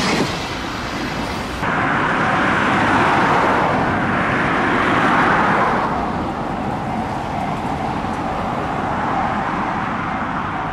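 Trackside rail noise: the rumble of a container freight train fading as it clears, then an abrupt cut to a steady rushing noise that swells and eases as an E657 limited express approaches.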